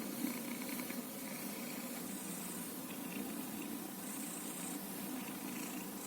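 A domestic cat purring steadily, a continuous rough rumble with no breaks.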